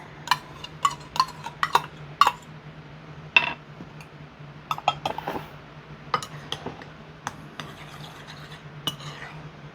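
A metal spoon clinking and scraping against a dish, in irregular taps and scrapes, over a steady low hum.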